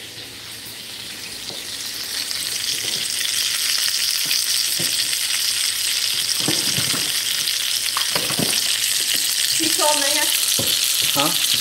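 Battered onion rings deep-frying in hot oil in a cast-iron skillet: a steady sizzling hiss that grows louder over the first few seconds and then holds, with a few light knocks.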